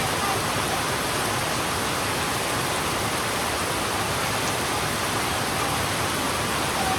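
Heavy rain falling steadily on a road, a loud even hiss with no letup.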